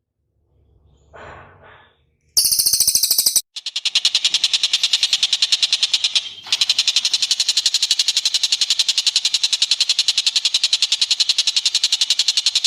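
Recorded bird calls played as a masteran training track: a faint short call, then a loud, rapid, continuous pulsed trill that breaks off briefly twice.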